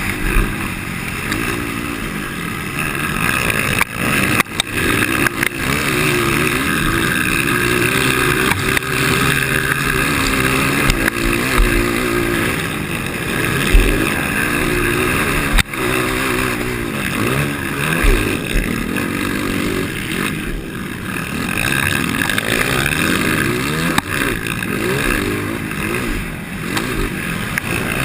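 A 230 cc motocross bike's single-cylinder engine, fitted with an aftermarket Doré header pipe and muffler tip, revving up and down continuously as it is raced round a dirt track. Several sharp knocks cut through, one near the middle.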